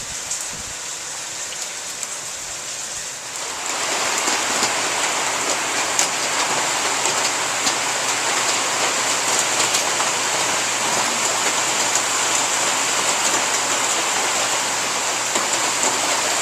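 Steady rain falling, a continuous hiss with scattered drop ticks that grows louder about three and a half seconds in.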